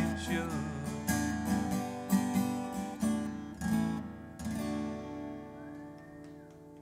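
Acoustic guitar strumming the song's closing chords, then a final chord left to ring out and fade away.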